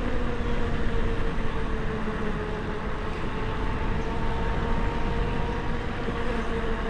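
Wind rushing over the microphone of a moving e-bike, with the steady whine of its electric motor, the whine's pitch drifting slowly lower.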